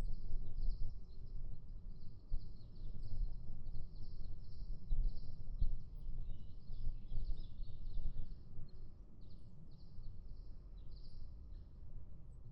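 Wind rumbling on the microphone under an almost continuous chorus of high-pitched chirping calls.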